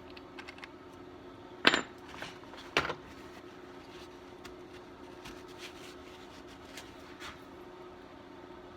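Small metal tools and parts being handled on a workbench: scattered light clicks and clinks, with two louder sharp knocks about two and three seconds in, over a steady low hum.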